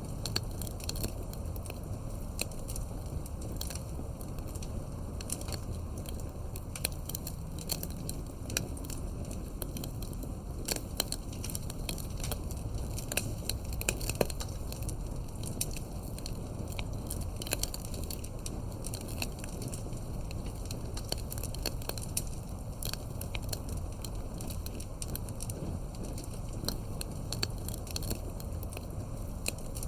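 Campfire of burning wood logs crackling, with frequent irregular sharp pops and snaps over a steady low rush of the flames.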